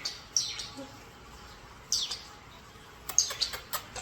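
Pet birds chirping: short high chirps that fall in pitch about half a second in and again at two seconds, then a quick run of clicks and chirps near the end.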